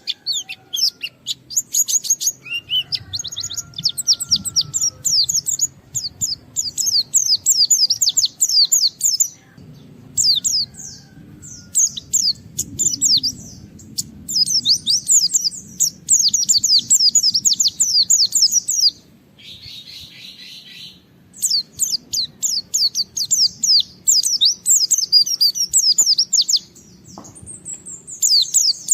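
White-eye (pleci) singing in long runs of rapid, high chattering notes, each run a few seconds long with short breaks between. There is a short raspy patch about twenty seconds in.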